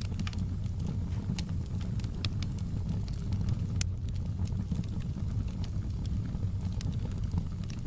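Wood fire burning in a fireplace: a steady low rumble of the flames, with scattered sharp crackles and pops, the loudest a little under four seconds in.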